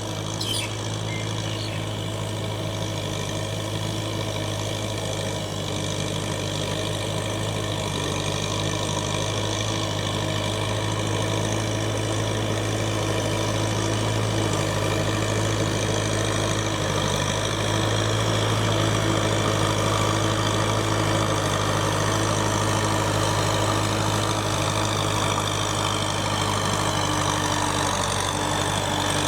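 Kubota M6040SU tractor's diesel engine running steadily at an even speed, without revving up or down.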